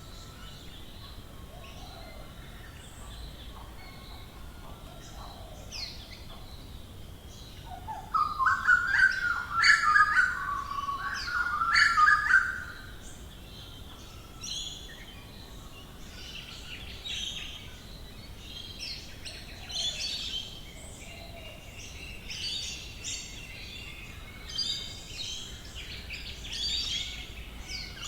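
Australian bush birds calling in a morning chorus. A loud burst of rapid, pitch-stepping calls starts about eight seconds in and lasts about five seconds, followed by many fainter, higher chirps and twitters.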